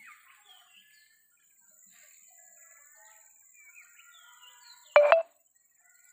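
Birds calling faintly with short, high, gliding chirps. About five seconds in there is one brief loud squawk.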